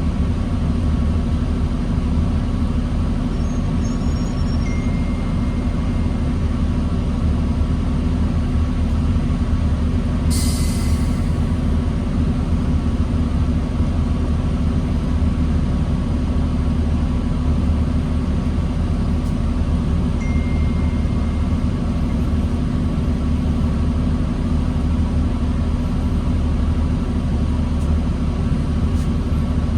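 New Flyer D40LFR diesel transit bus running steadily with a low engine rumble. A short hiss comes about ten seconds in.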